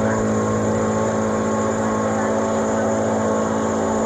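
Boat engine running at a steady speed, a constant even hum.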